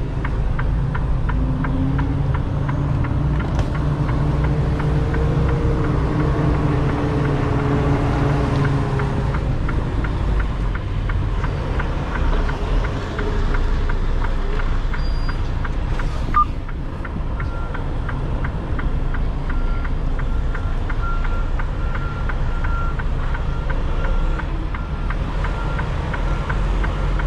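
Semi truck's diesel engine running with a steady low rumble, heard from inside the cab. From about halfway through, a faint high beep repeats roughly once a second.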